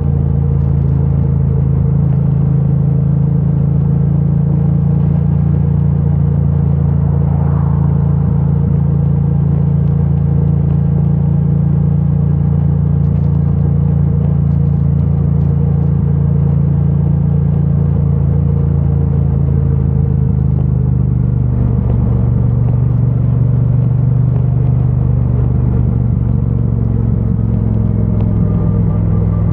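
2022 Triumph Bonneville T100's 900 cc parallel-twin engine running steadily through its stock exhaust as the bike cruises, picked up by a microphone stuffed in the rider's backpack. The engine note shifts slightly about twenty seconds in.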